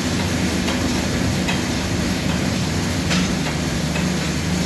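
Steady mechanical whirring rumble with a few faint clicks.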